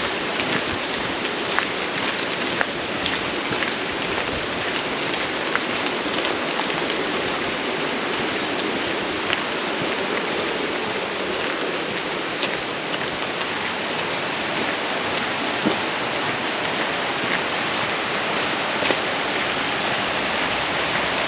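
Wagner Falls roaring, a steady rush of falling water mixed with rain, with scattered sharp ticks of raindrops.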